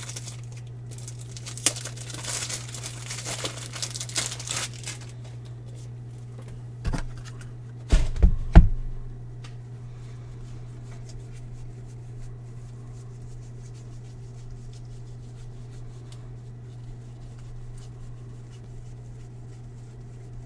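Plastic wrapping crinkling and tearing as a pack of card top loaders is opened, followed by a few loud knocks about eight seconds in, then only faint handling ticks.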